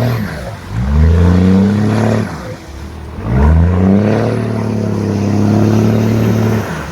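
Swapped-in 24-valve Cummins turbo-diesel engine revving hard twice. Each time it climbs quickly in pitch and holds high, the first for about a second and a half and the second for about three seconds, before dropping off.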